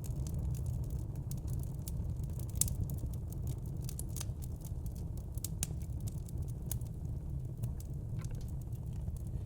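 Crackling fire: irregular sharp pops and crackles, several a second, over a steady low rumble.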